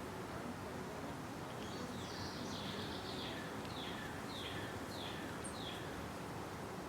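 A songbird singing one phrase of about five short falling notes, each sliding down in pitch, over steady outdoor background noise.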